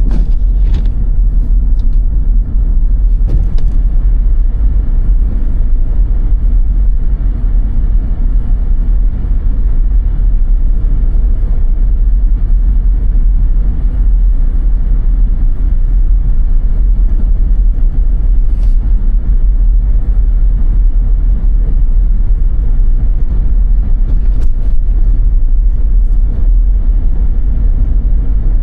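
Car driving through snow: a loud, steady low rumble of road and engine noise.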